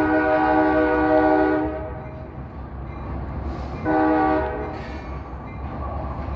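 Freight locomotive's air horn sounding for a road crossing: a long blast that stops about a second and a half in, then a short blast about four seconds in, over the steady low rumble of the passing train.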